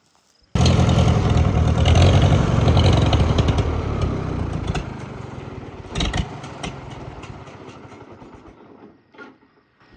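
Old Farmall tractor engine running, cutting in suddenly about half a second in and then fading steadily over several seconds, with a short clank about six seconds in.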